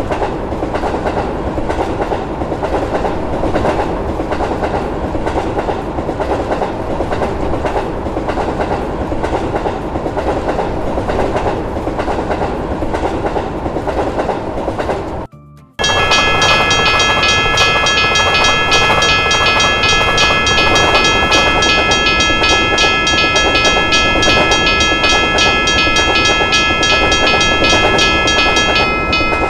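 Train passing a level crossing: a steady rumble with wheel clatter. About halfway, after a brief break, a new pass begins with a steady chord of several tones, like a train horn, and a fast, evenly repeating ringing of the crossing bell over the train noise.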